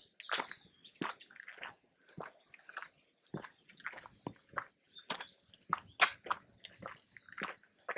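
Footsteps crunching on a forest path, about two steps a second and uneven, some louder than others.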